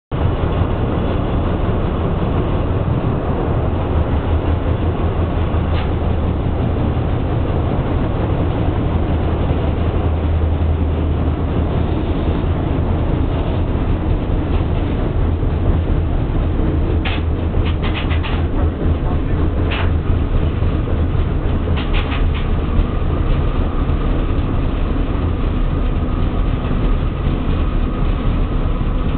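Paris Métro works-train convoy hauling a Sprague-Thomson train along the track: a steady low rumble of the train running. A few short runs of clicks come a little past halfway, typical of wheels passing over rail joints.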